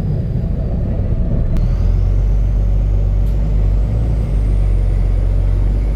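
Diesel engine of a Volvo B9TL double-decker bus running with a loud exhaust note that the uploader puts down to a burst exhaust. About one and a half seconds in there is a click, then the engine pulls harder with a deeper, stronger drone and a faint whine rising in pitch as the bus accelerates.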